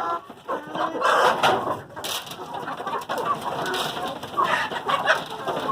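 Chickens clucking and calling around the coop as they are fed maize.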